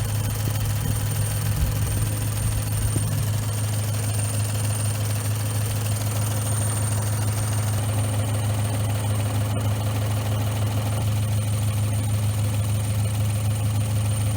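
2018 Ford Escape's 1.5 EcoBoost turbocharged inline-four idling steadily, breathing through an aftermarket free-flow intake and high-flow exhaust.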